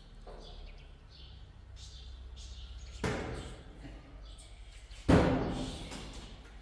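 Two loud thuds about two seconds apart, the second louder, each dying away over about half a second.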